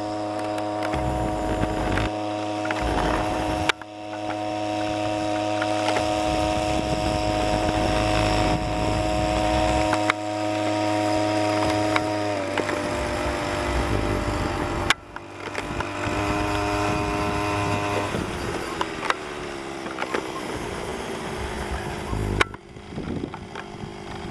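Small motor of a homemade boat running steadily. Its pitch drops about halfway through and slides lower again a few seconds later, with a few brief breaks in the sound.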